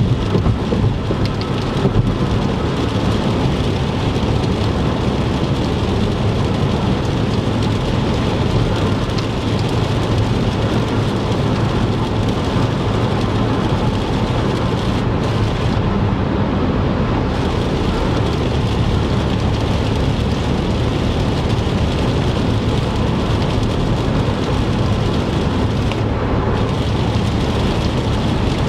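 Car driving on a wet interstate in rain: a steady low road and tyre rumble with rain hitting the car, with a few brief taps in the first couple of seconds.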